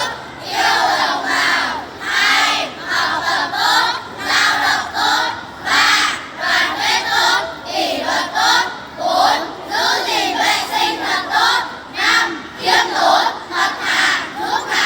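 A large group of children's voices shouting together in unison, in short rhythmic bursts a little under two a second.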